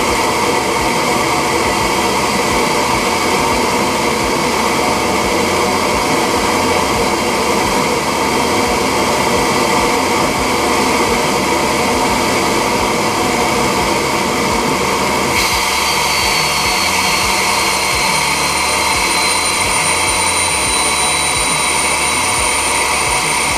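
Volvo S40 T5's turbocharged 2.5-litre five-cylinder engine running steadily, with no words over it. About two-thirds of the way through the tone changes: the lower part thins out and a high thin whine sets in, sliding slightly down in pitch.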